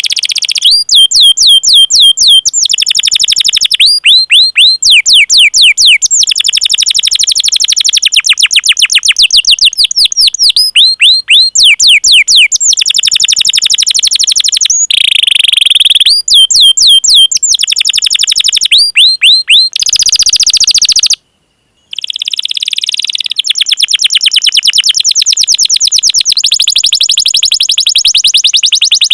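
Domestic canary singing a long song: runs of rapid, repeated downward-sliding 'cuit cuit' whistles alternating with fast rolling trills, phrase after phrase. The song breaks off into a brief silence about 21 seconds in, then resumes.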